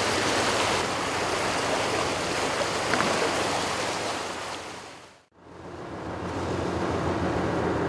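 Rushing wind and water noise on a small boat at sea, with a steady low engine hum underneath. The sound dips out abruptly about five seconds in and comes straight back.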